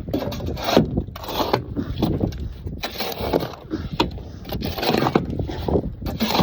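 Shovel scraping and scooping through sand and gravel in repeated irregular strokes, with sharp knocks and rattles between them.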